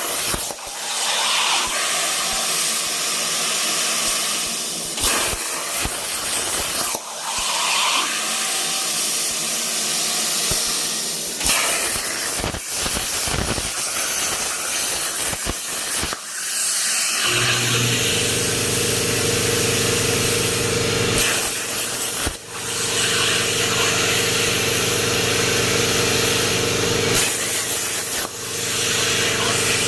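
Air plasma cutting torch on a CNC table cutting 16-gauge steel, a loud hissing arc that cuts out and restarts several times between cut paths. About halfway through, a steady humming tone joins the hiss.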